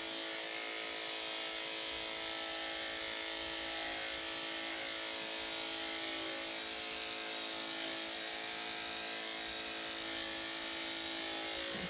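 Electric dog grooming clippers running steadily, an even buzz that holds one pitch throughout.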